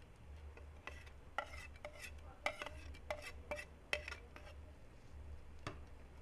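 Metal spoon clinking and scraping against a cooking pot while stirring, a quick run of sharp ringing clinks in the middle, over a steady low hum.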